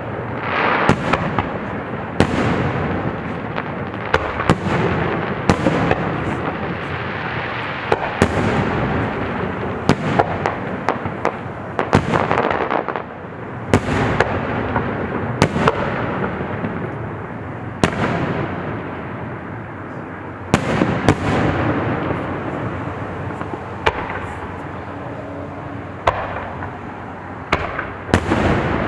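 Aerial fireworks exploding in a rapid barrage of sharp bangs, often several in quick succession, with their booms echoing and rumbling between bursts.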